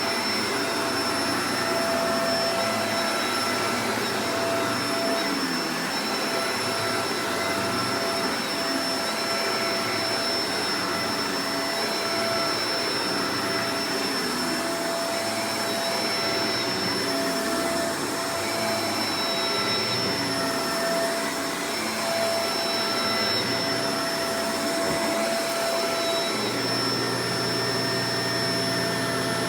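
Shark Professional Powered Lift-Away DLX (NV586) upright vacuum cleaner running steadily: a rush of air with a constant motor whine on top. Underneath, a low hum shifts unevenly and then settles into a steady tone near the end.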